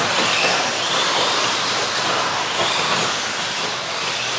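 A pack of 1/10-scale electric stadium trucks with 13.5-turn brushless motors racing off-road: a steady whir of motors, gears and tyres, with faint whines rising and falling as the trucks throttle on and off.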